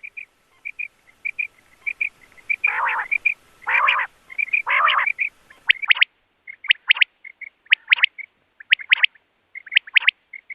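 Quail calling: short, sharp notes in quick groups of two or three, repeated over and over, with soft chirps between them. A few longer, harsher calls come in the first half.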